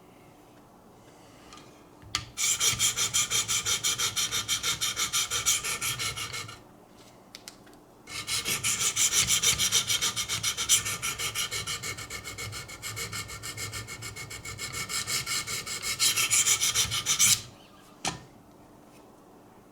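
Wicked Edge sharpener's coarse diamond stones rasping along a steel knife edge in fast back-and-forth strokes, about five a second, in two long runs with a short pause between. This is the coarse stage of raising a burr along the edge, with a single click near the end.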